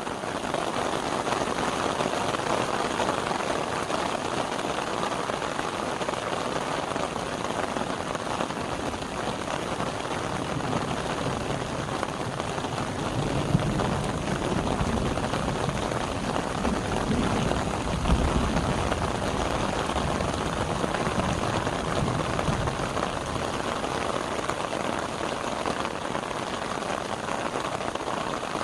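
Steady spring rain falling and pattering on surfaces, with a low rumble swelling in the middle.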